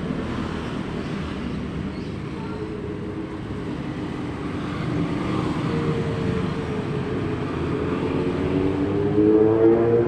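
Road traffic with a motor vehicle's engine coming up: its note rises in pitch and grows louder through the second half.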